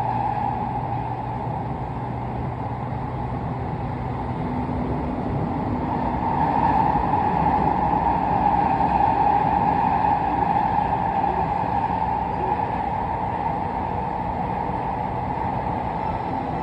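Tokyu 5050 series electric train running, a steady noise of the moving train that grows a little louder midway.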